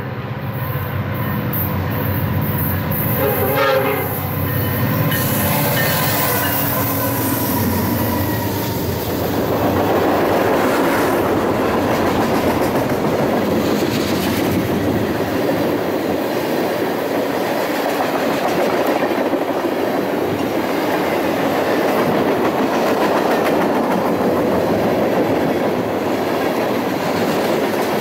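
A Norfolk Southern freight train passing close by. Its horn sounds in the first few seconds as the diesel locomotives come through. Then comes a steady rumble and wheel clatter as a long string of tank cars and boxcars rolls past.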